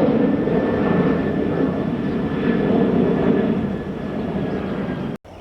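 Jet airliner engines running loud as the plane passes, a dense rush with a steady high whine over it, easing a little near the end and then cut off abruptly.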